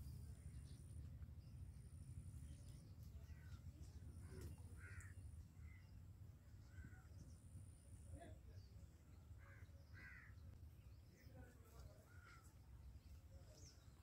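Faint outdoor ambience: a few short bird calls a few seconds apart over a low steady rumble.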